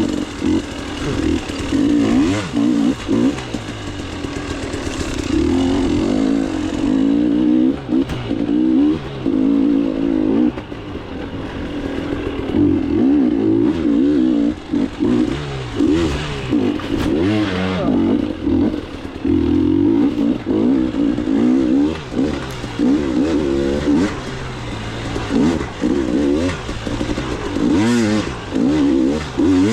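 KTM 300 two-stroke dirt bike engine revving hard and dropping back again and again as the rider works the throttle along a trail, its pitch rising and falling every second or two.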